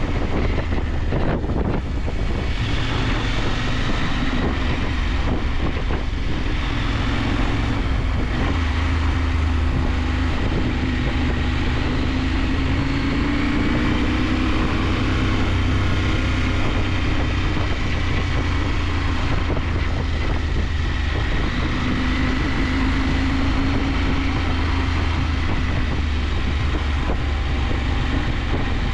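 KTM 890 Adventure's parallel-twin engine running steadily while riding, its pitch rising and falling gently with the throttle, over wind rushing past the microphone.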